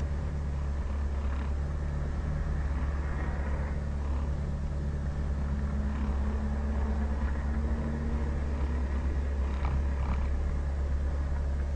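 Car engine idling steadily, heard from inside the stopped car's cabin as a low, even hum, with a few faint knocks.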